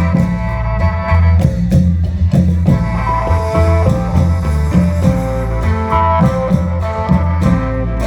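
Isan folk music from a klong yao long-drum band: a melody line over a steady, repeating bass pattern and regular drum strikes.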